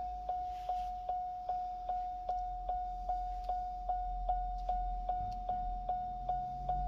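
Chevy Cobalt SS's warning chime ringing over and over, a single steady tone repeating about two and a half times a second.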